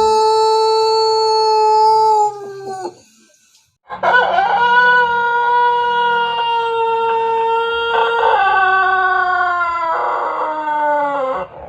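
Pelung roosters crowing: a long, held crow ends about two and a half seconds in, and after a short gap a second very long, drawn-out crow of about seven seconds follows, stepping down in pitch about two-thirds of the way through and falling away at the end.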